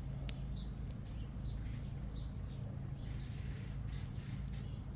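Wind buffeting the microphone as a steady low rumble, with a few sharp crackles from a small charcoal-and-twig campfire, the strongest just after the start, and faint bird chirps behind.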